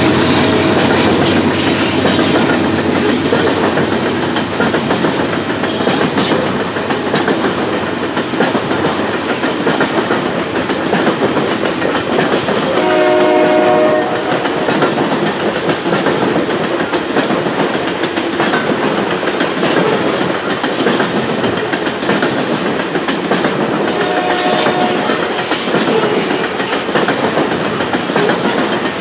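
Coal hopper cars of a long freight train rolling steadily past, their wheels clicking over the rails. A brief pitched tone sounds about halfway through.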